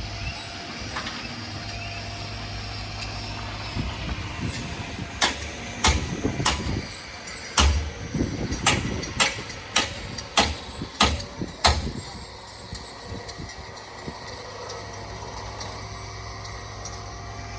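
Heavy construction machinery running steadily, with a run of sharp metallic knocks and clanks from about five to twelve seconds in.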